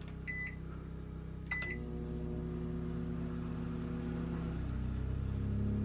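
Microwave oven keypad beeping twice, then the microwave starting up and running with a steady electrical hum. Under it a generator hum rises in pitch near the end as the Westinghouse iGen2500 inverter generator powers up to carry the microwave's load.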